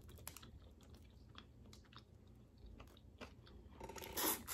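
A person chewing food softly close to the microphone, with small wet mouth clicks, and a louder brief rush of noise about four seconds in.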